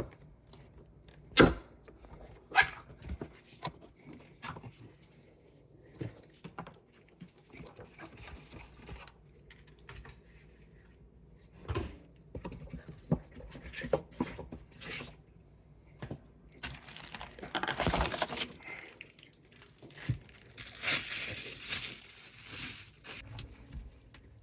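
Work on a garbage disposal replacement: scattered knocks and clicks from handling parts and tools, with two longer stretches of tearing, rustling noise about two-thirds of the way through and again near the end.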